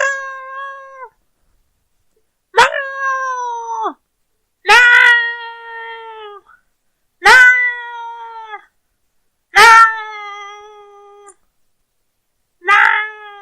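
A woman imitating a cat with her own voice: six drawn-out meows about every two and a half seconds, each starting sharply, holding a steady pitch and dropping away at the end, with silent gaps between.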